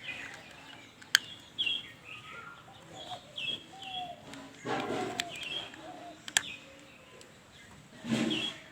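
Small birds chirping again and again in the background, with two sharp clicks, about a second in and near six seconds, as plastic toy parts are handled and screwed together.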